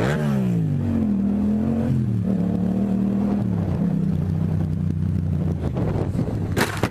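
Motorcycle engine on the road, its pitch falling sharply as the revs drop, wavering up and down, then settling to a lower steady note. A short sharp knock or clatter near the end.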